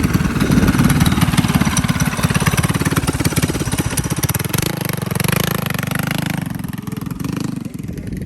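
Small mini bike engine running close by with a fast, even pulsing beat, fading away near the end.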